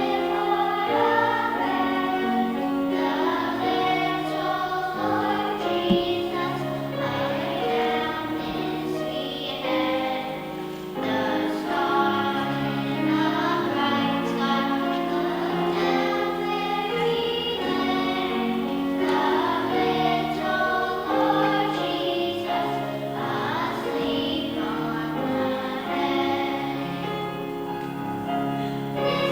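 A choir of children's and women's voices singing a song with instrumental accompaniment.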